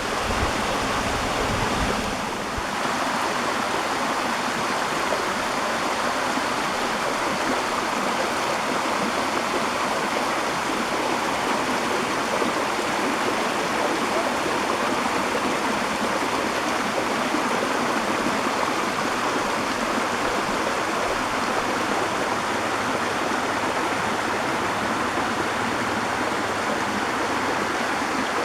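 Waterfall's rushing water: a steady, even rush with no change, and a brief low rumble in the first couple of seconds.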